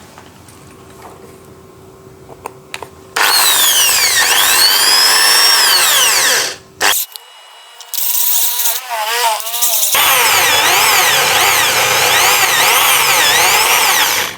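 Electric hand drill boring a hole into a bicycle freewheel's metal lock ring. It runs in about three bursts starting a few seconds in, its motor pitch swooping and wavering as the bit bites, so that the ring can be levered round and unscrewed.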